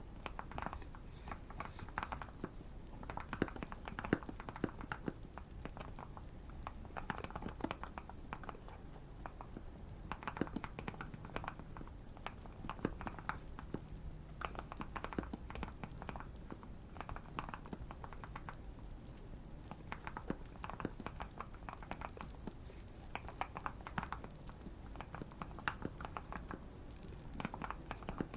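Typing on a tape- and foam-modded Keychron Q1 mechanical keyboard: runs of quick keystrokes in bursts with short pauses. A light fire crackle runs underneath.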